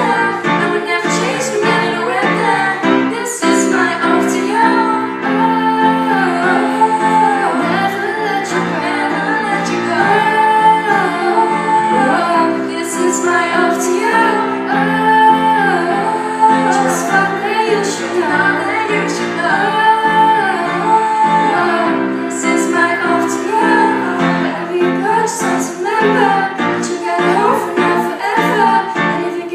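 A woman singing a pop song over an instrumental backing with a steady drum beat.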